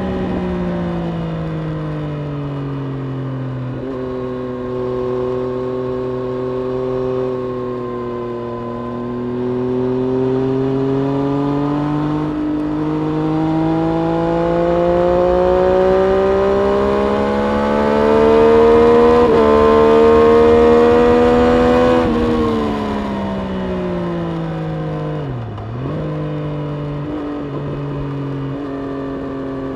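Triumph Street Triple RS 765 three-cylinder engine under way at track pace. Its note holds fairly steady, climbs in one long smooth pull for about ten seconds, then drops off quickly with a brief sharp dip and settles again near the end.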